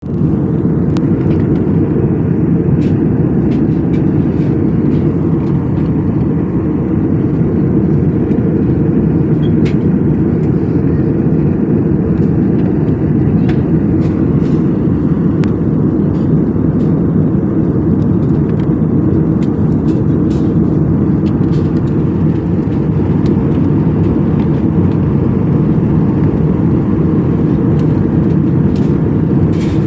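Airliner cabin noise in flight: a steady, deep rumble of engines and airflow heard from inside the cabin, with a few faint ticks.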